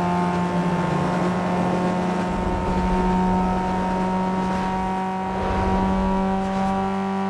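1998 Renault Mégane 2.0 engine running at a steady speed, with two brief swells of rough low rumble about two and a half and five and a half seconds in.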